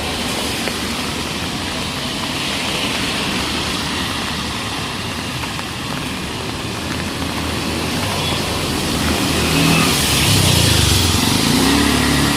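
Street traffic: the steady hiss of passing vehicles, then a motor vehicle's engine running close by and growing louder over the last few seconds, its pitch rising near the end.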